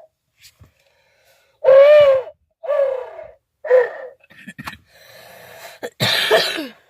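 Owl locator call being blown: three hoots about a second apart, then a louder, harsh, falling note near the end. The caller is choked up and can't blow it as it should be blown, so it sounds breathy and rough.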